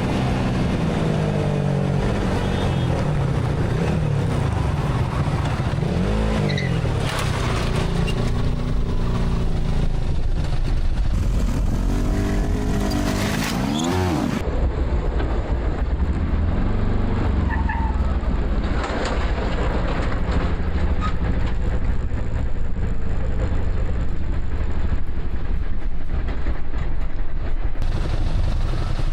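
Vehicle engines and road noise, an engine's pitch rising and falling as it revs and eases off several times. The sound changes abruptly about fourteen seconds in and again near the end, into a steadier engine drone.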